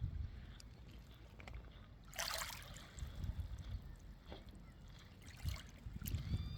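Calm sea water lapping and sloshing, with a low rumble of wind on the microphone; a louder splash of water about two seconds in.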